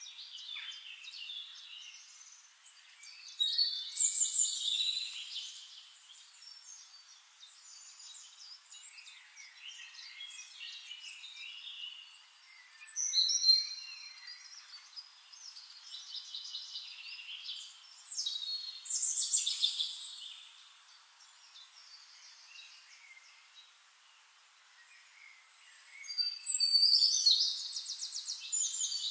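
Small birds singing and chirping in bursts of quick twittering and trills, loudest a few seconds in, twice in the middle, and near the end.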